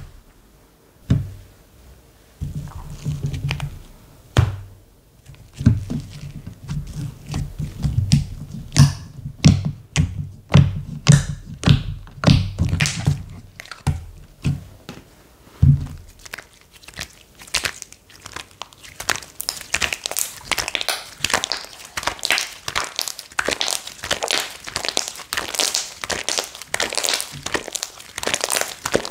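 Hands squishing and pressing slime: dull squelches and thunks for the first half, then from about halfway a dense run of rapid crackling and clicking pops.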